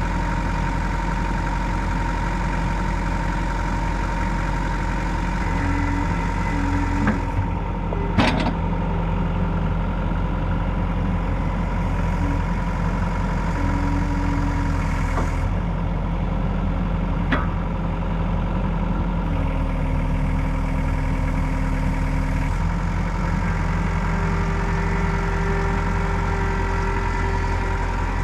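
Engine running steadily at idle, its low hum shifting in tone now and then, with a few sharp knocks about a third of the way in and again past the middle.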